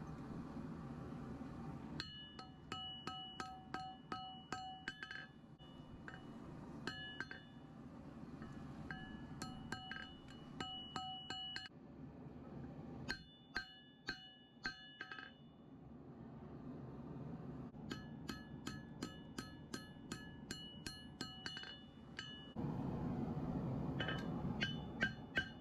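Hand hammer striking hot steel on an anvil while forging a Damascus knife blade, in rounds of steady blows about three a second, each blow leaving a bright metallic ring at the same pitch. Between rounds there is a low steady rush.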